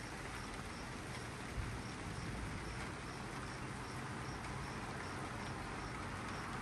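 Steady hiss of rain falling during a thunderstorm, with a cricket chirping about twice a second through it. A single soft thump comes about one and a half seconds in.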